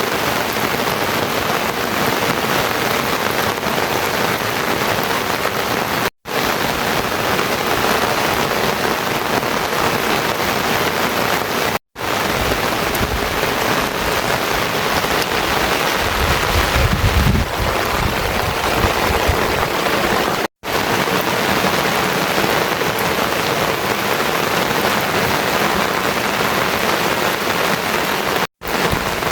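Heavy rain falling steadily, a dense even hiss, with a low rumble swelling through the middle. The sound drops out for an instant four times.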